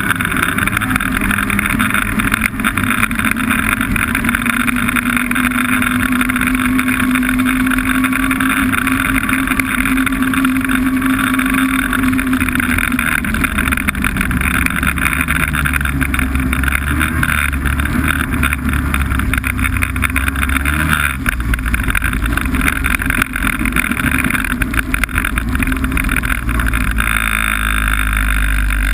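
Snowmobile engine running steadily while riding. Its pitch holds for the first half and then drops as the engine eases off.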